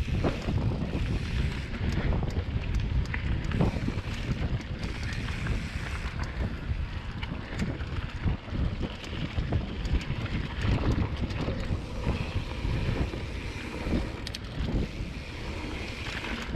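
Wind buffeting the microphone over the rumble of a mountain bike rolling along a dirt trail, with frequent small knocks and rattles from the bike.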